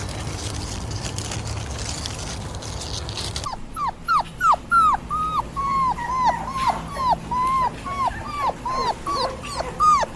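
A steady noisy rumble for the first few seconds, then a puppy whimpering: a quick run of short, high cries, about three a second, each dropping in pitch.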